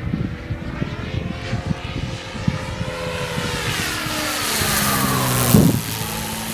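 Large electric RC aerobatic plane's motor and propeller passing in a flyby: the pitched buzz grows louder, peaks about five and a half seconds in, then drops in pitch as it goes by.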